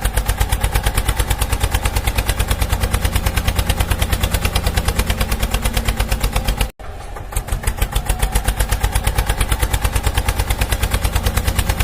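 Tractor engine running steadily with a rapid, even beat, breaking off for an instant about seven seconds in.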